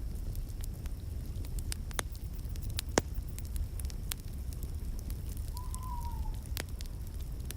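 Wood fire in a fireplace burning with a steady low rumble and scattered sharp crackles and pops, the loudest about three seconds in. A brief faint whistling tone comes a little after five seconds.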